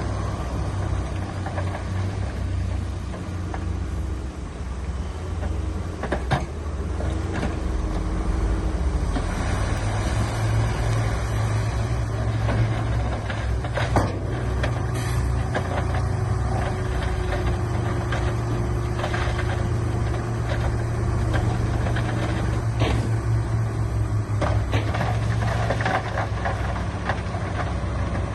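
Heavy diesel construction machinery running steadily, its engine note growing stronger about a third of the way in, with a few sharp knocks along the way.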